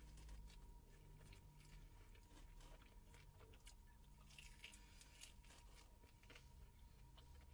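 Faint close-up eating sounds: chewing with scattered small crunches and wet clicks, busiest around the middle.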